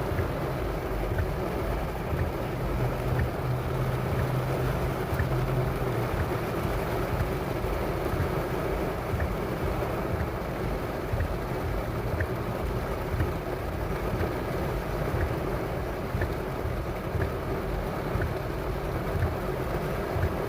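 Steady noise inside a car in heavy rain: rain on the car body over a low rumble, with a few faint ticks.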